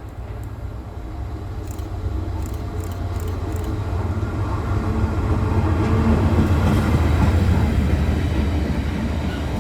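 A train approaching on the line, its low rumble growing steadily louder over several seconds.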